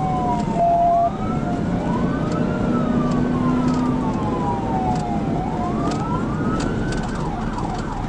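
Police cruiser siren wailing in slow rising and falling sweeps, with a brief louder steady tone about a second in and faster up-and-down sweeps near the end, over the steady rumble of the cruiser and road at pursuit speed.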